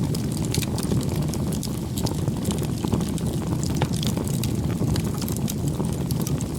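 Bonfire burning: frequent irregular sharp crackles and pops of burning wood over a steady low rumble.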